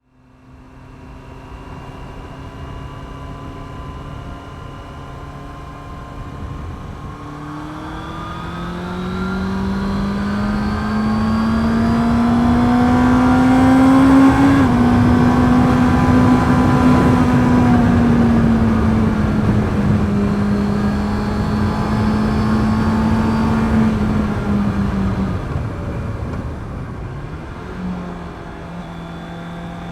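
Honda CB650R's inline-four engine through its stock exhaust: steady at first, then rising in pitch as the bike accelerates, with a brief dip about halfway, holding steady for a while, then dropping off near the end before rising again.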